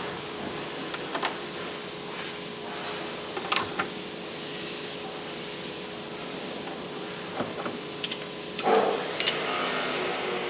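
Scattered sharp clicks and knocks of car interior parts and tools being handled, over a steady background hum, with a longer scraping rustle near the end.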